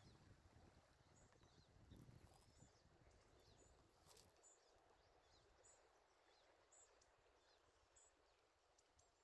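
Faint outdoor ambience: a small bird giving short high calls about once a second over a low rushing noise that eases about four seconds in.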